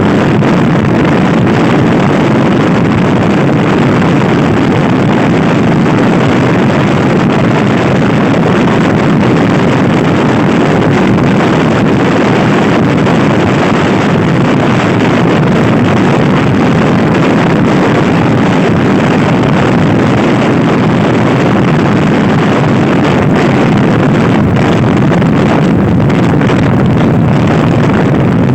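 Loud, steady wind noise buffeting the microphone, mixed with a Honda Scoopy i scooter's engine running at speed.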